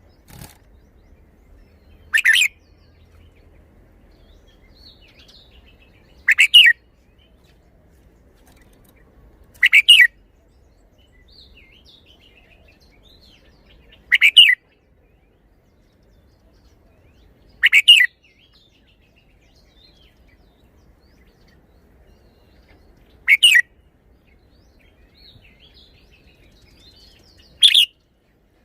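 Red-whiskered bulbul singing: seven short, loud song phrases spaced a few seconds apart, with faint soft chirps in between.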